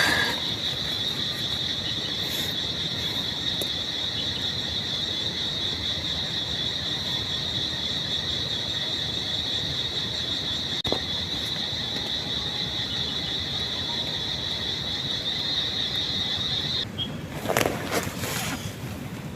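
A steady, high-pitched insect trill over the even hiss of rain. The trill cuts off suddenly about 17 seconds in, and a couple of short rustling noises follow near the end.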